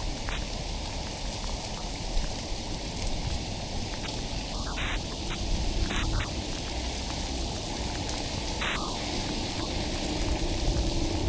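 Steady rain and road noise heard from inside a car driving in a downpour: an even hiss over a low rumble, with a few brief higher swishes.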